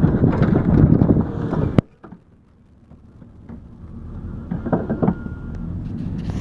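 Wind buffeting the microphone with a low rumble, cut off by a sharp click about two seconds in. Then it is much quieter, and a low rumble slowly builds back with a few knocks.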